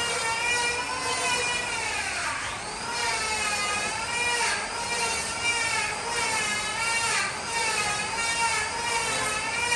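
Electric power tool running with a steady high motor whine whose pitch wavers up and down as the load changes, with a few brief scraping bursts.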